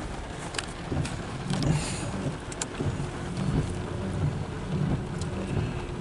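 Loaded autorack freight cars rolling past: a steady low rumble with scattered sharp clicks.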